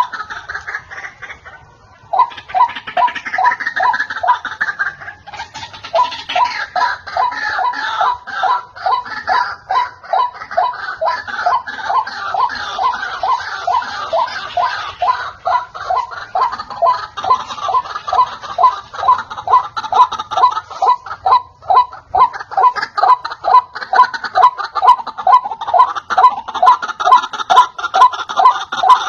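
White-breasted waterhens calling: rapid, repeated harsh notes, several a second, in overlapping series that run on almost without a break. There is a short lull about two seconds in.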